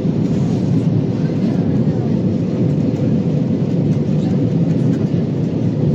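Steady rumble of engine and airflow noise in the passenger cabin of an Airbus A320 in flight, even and unchanging, with a faint steady hum.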